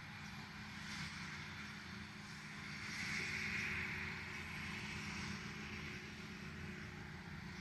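Heavy farm machinery running steadily with a low engine rumble and a broad hiss that swells about three seconds in.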